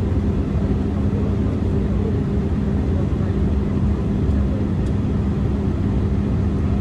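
Embraer E175 airliner heard from inside the cabin in flight: a steady low drone of its CF34 turbofan engines and the airflow, with a constant low hum running through it.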